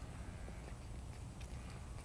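A person chewing food, softly, with a few faint scattered mouth clicks.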